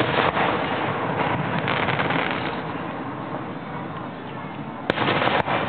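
Aerial fireworks display: a dense crackle from bursting stars fills the first couple of seconds. About five seconds in come three sharp bangs of shells bursting in quick succession, each followed by more crackle.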